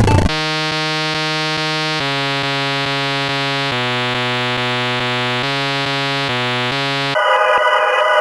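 Electronic synthesizer music: a buzzy synth holds long notes that step to a new pitch every second or two, right after a techno drum-machine beat stops. Near the end a denser, higher synth layer takes over.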